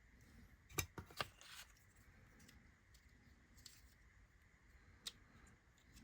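A few short sharp clicks and taps of laser-cut kit parts being handled and pressed together, two close together about a second in and one near the end, against near silence.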